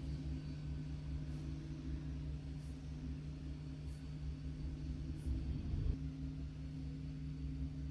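Vacuum pump of a desktop vacuum leak tester running with a steady low hum, with faint high ticks about every second and a half.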